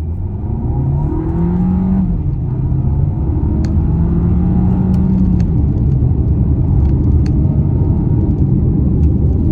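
Car engine accelerating under manual paddle-shift control: the revs rise, drop off at an upshift about two seconds in, rise again and fall at a second upshift about five seconds in, then settle into a steady low rumble with tyre and road noise. A few light ticks sound over it.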